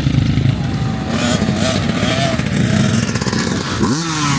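Motorcycle engines running at low speed in a slow group ride, with one engine revved sharply up and back down near the end.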